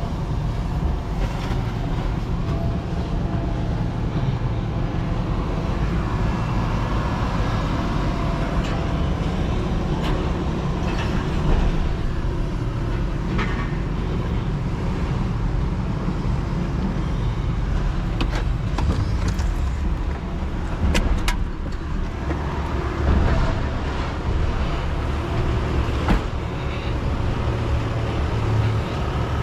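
A vehicle engine running steadily with a low rumble, with a few sharp knocks and rattles now and then.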